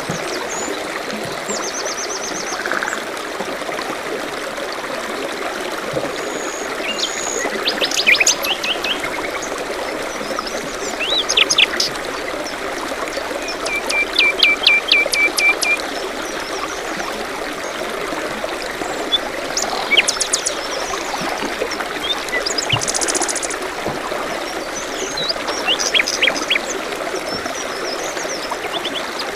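A small stream trickling steadily, with several songbirds chirping over it now and then, including one quick trill of repeated notes about halfway through.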